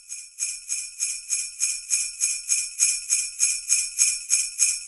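Sleigh bells shaken in a steady rhythm, about three shakes a second.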